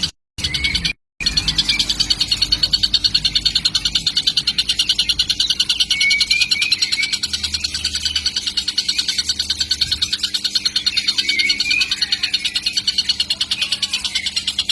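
Young tengkek (kingfisher) chick calling in a fast, continuous, high-pitched pulsing chatter, with a few lower chirps mixed in.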